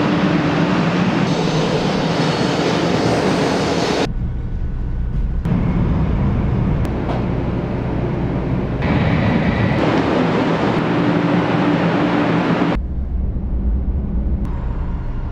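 Shinkansen train noise in short clips that cut abruptly from one to the next. It is the 500-series Hello Kitty Shinkansen, heard at the platform and then as a deep rumble inside the running carriage.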